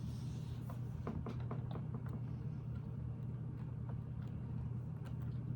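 Small plastic Lego pieces clicking and tapping as they are handled and pressed together, scattered through and busier near the end, over a steady low hum.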